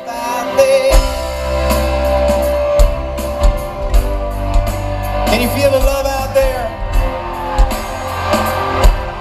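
Live rock band playing, loud, with a lead vocal over guitar; the drums and bass come in about a second in with a steady beat.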